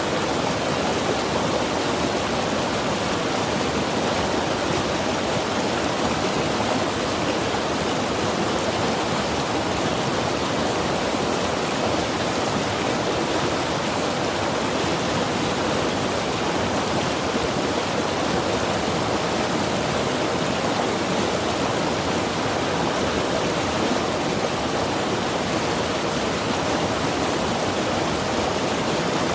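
Mountain river rushing over rocks: a steady, even wash of water noise that never changes.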